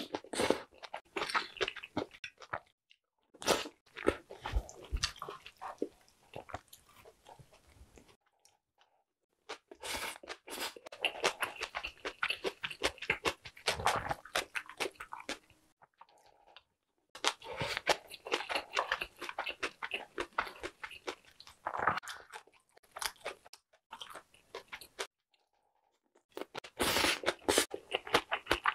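Close-miked chewing and crunching of food (radish-salad bibimbap and spicy jeon stew), in several bouts of dense, clicky mouth sounds with brief silent gaps between them.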